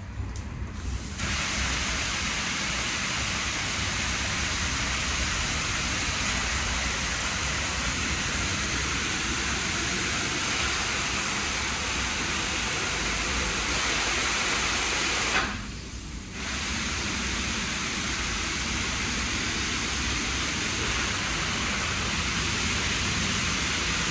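WashTec SoftCare Pro car wash nozzles spraying a treatment onto the car: a steady hiss of spray that starts about a second in and breaks off for about a second past the middle before resuming.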